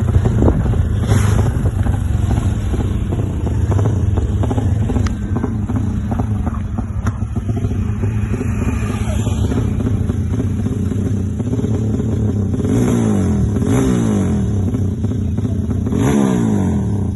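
Motorcycle engine, newly built and being set up, running steadily and then revved three times near the end, each rev rising and falling in pitch.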